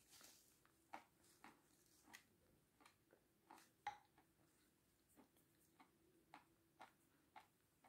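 Faint, close-miked mouth sounds of chewing sour cream with meringue: soft, wet smacks and clicks of lips and tongue, irregular, about two a second.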